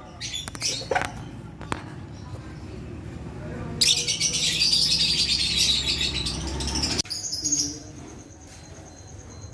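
Lovebirds chirping: a few short, sharp chirps, then about three seconds of loud, dense, high-pitched chattering starting about four seconds in that cuts off suddenly, followed by quieter chirps.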